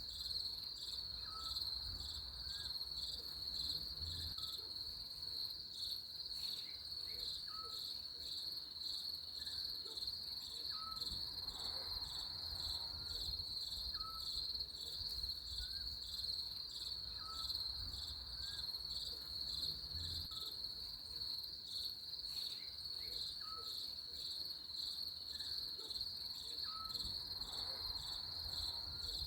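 Crickets trilling in one continuous high, pulsing band, over a short faint note that repeats about every second and a half.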